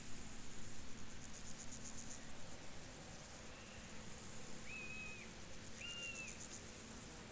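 Crickets chirping in the field, in rapid pulsed high trills that come in two spells about four seconds apart, over a faint steady background. Two short flat whistled notes sound about two-thirds of the way through.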